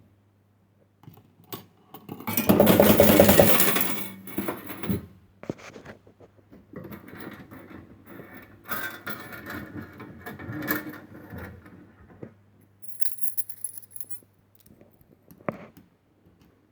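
Coins clattering in a 1970s penny fruit machine, loudest in a burst of over a second about two and a half seconds in, followed by quieter clicks and mechanical rattles. A faint steady low hum runs underneath.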